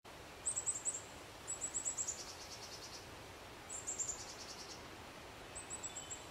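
A small songbird singing four short, very high phrases, each a quick run of thin chirps; two of the phrases drop into a lower, buzzier trill. A faint steady outdoor hiss lies beneath.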